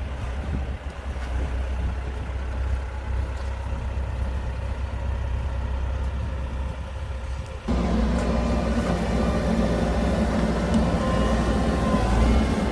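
Heavy diesel engine of earthmoving machinery running steadily with a low hum. About two-thirds of the way through the sound jumps abruptly louder, with more engine noise higher up.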